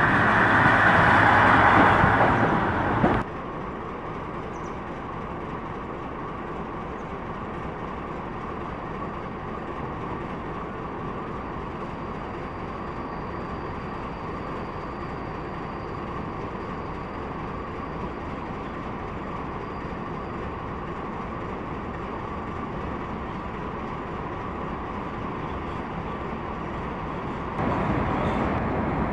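Train noise, loud for the first three seconds and then cut off abruptly. It gives way to a steady, quieter rumble with a faint high whine, which swells again near the end.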